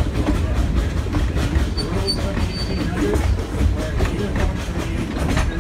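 Steam-hauled passenger train rolling along the track, heard from a car behind the tender: a steady low rumble with the clickety-clack of wheels over the rails. A few brief high squeaks come about two seconds in.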